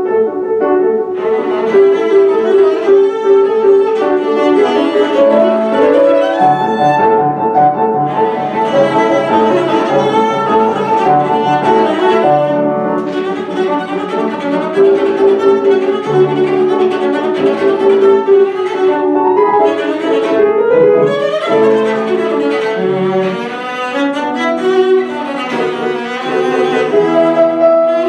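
Live classical music: a violin playing sustained, singing melodic lines over piano accompaniment, starting abruptly just as the piece begins.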